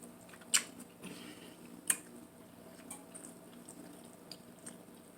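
Eating sounds: two sharp clicks about a second and a half apart, among faint scattered wet ticks.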